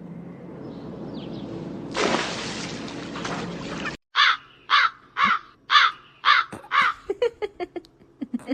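After a cut about four seconds in, a bird gives a run of harsh calls roughly half a second apart, then quicker, shorter ones near the end. Before the cut there is only an even, hiss-like noise.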